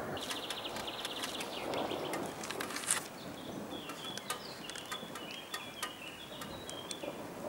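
Songbirds calling: a fast trill near the start, then a run of short, stepped high notes, with scattered sharp ticks throughout. A low rumble of thunder fades in the first three seconds.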